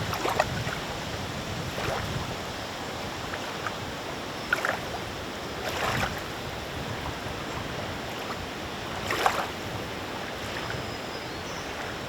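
Small wind-driven waves lapping at the lake's edge, with a few irregular louder splashes over a steady hiss of wind and water.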